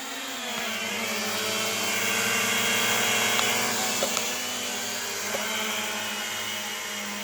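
Propel Flex 2.0 toy quadcopter drone hovering, its propellers giving a steady high whine. The whine swells in pitch and level about two to three seconds in, then eases, with a couple of faint ticks.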